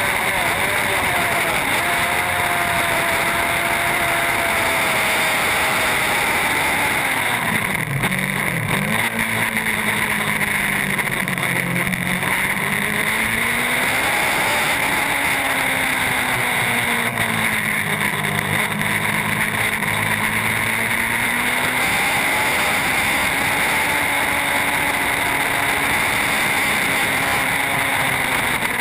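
Racing superbike engine at high revs, its pitch dropping and climbing again several times as it slows and accelerates, over a steady rush of wind noise.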